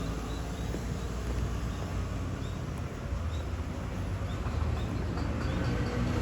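Outdoor ambience: short high bird chirps every second or so over a steady low rumble like distant traffic.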